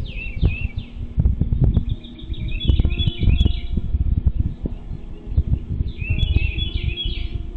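Birds chirping in three quick bursts of high, rapid calls, over a steady low rumble with scattered knocks.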